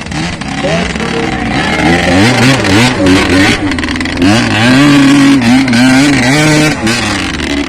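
Off-road vehicle engine revving: quick up-and-down blips, then held at high revs for a couple of seconds before dropping back near the end.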